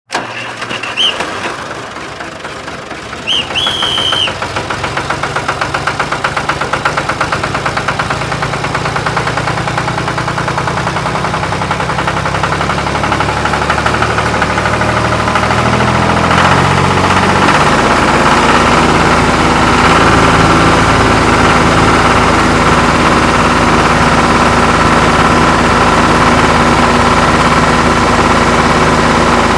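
Tractor-style engine sound running with a fast even chugging, growing louder over the first twenty seconds and then holding steady. Two short high chirps come near the start.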